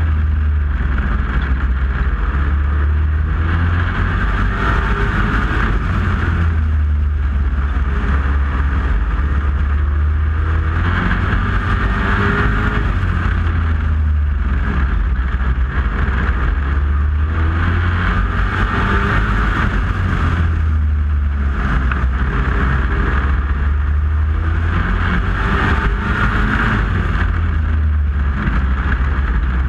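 Competition truck engine running hard at high revs, loud and steady, its tone swelling and easing every several seconds.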